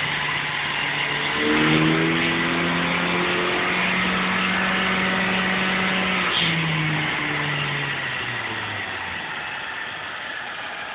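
Vauxhall Cavalier engine running. About a second and a half in, the revs rise and are held steady for several seconds, then drop back down in steps towards the end.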